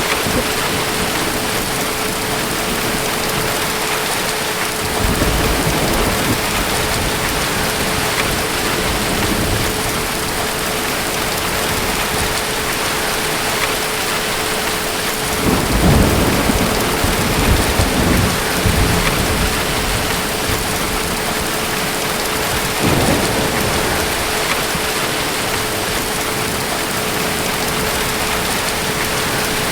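Steady heavy rain with thunder rumbling three times: a short rumble about five seconds in, the loudest and longest from about fifteen to nineteen seconds in, and a shorter one a few seconds later.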